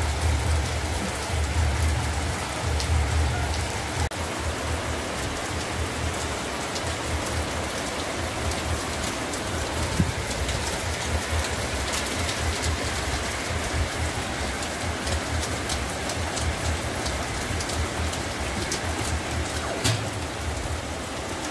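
Heavy rain falling steadily, with many fine ticks of drops striking close by and two sharper taps, about ten and twenty seconds in.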